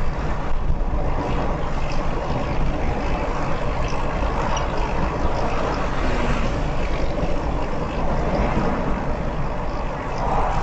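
Steady road noise of a car driving along a highway: tyre and engine noise, with no sudden events.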